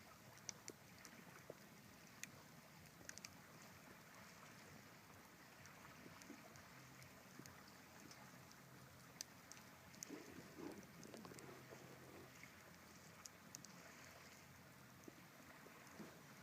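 Faint campfire crackling: scattered sharp pops and snaps at irregular moments over a low steady hiss.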